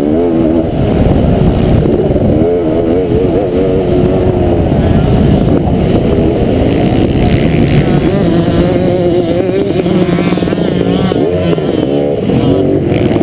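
Motocross motorcycle engines racing, revving up and down with the throttle so that the pitch rises and falls again and again, with more than one bike heard at once.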